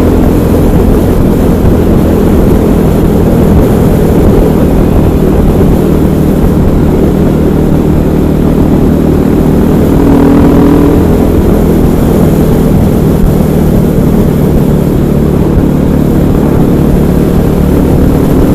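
KTM 500 EXC supermoto's single-cylinder engine running steadily under way, mixed with a constant rush of wind noise.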